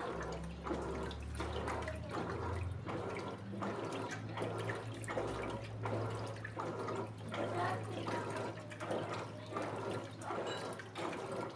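Electrolux Essential Care 14 kg washing machine in its wash cycle: water sloshing in surges about one and a half times a second over a steady motor hum.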